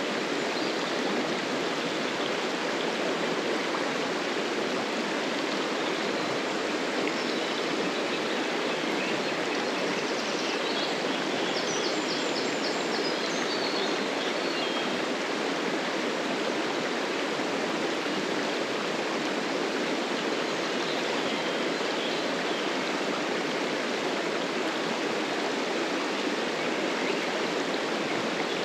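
Steady rush of flowing stream water, with a few faint high chirps about ten to fourteen seconds in.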